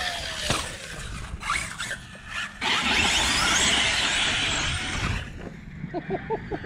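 Electric RC monster truck driving on sand, its motor whining and gliding up and down in pitch. A louder stretch of spinning-tyre noise runs from about two and a half to five seconds in.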